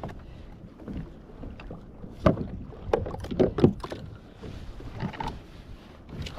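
Several knocks and clunks on a fishing kayak: one about two seconds in and a cluster around three to four seconds in, over a steady low background of wind and water.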